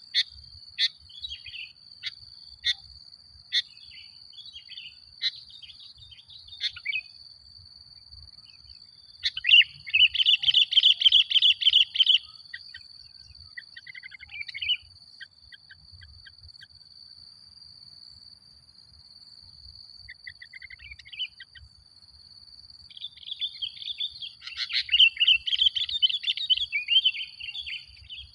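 Sooty-headed bulbul (kutilang) singing: scattered sharp chirps, then two long runs of rapid, chattering song, one about ten seconds in and one near the end. A steady high buzz, like an insect, runs underneath.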